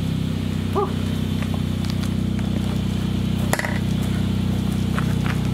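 A 4x4's engine idling steadily, with a single sharp knock about three and a half seconds in.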